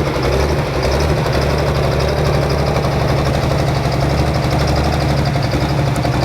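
Pro Farm pulling tractor's diesel engine running at a steady speed, a loud, deep note that holds without revving up or down.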